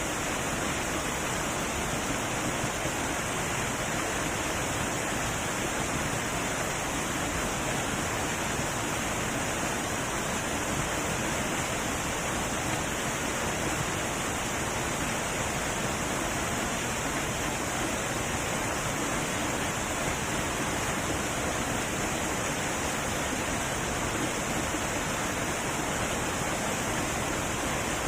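Heavy waterfall, a steady, even rush of falling water with no breaks.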